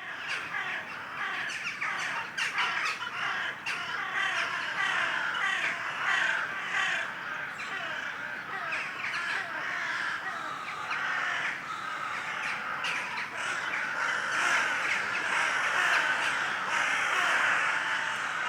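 A dense chorus of many birds calling over one another, continuous and unbroken.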